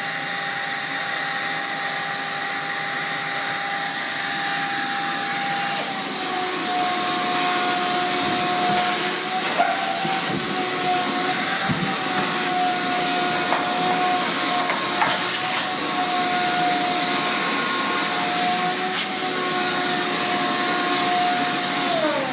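Vacuum cleaner running steadily, its pitch dropping slightly about six seconds in as it cleans out the dryer drum, then switched off near the end, the motor winding down.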